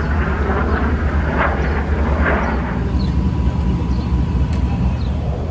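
Jet aircraft of an airshow flying display passing overhead, a steady deep rumble of jet engines.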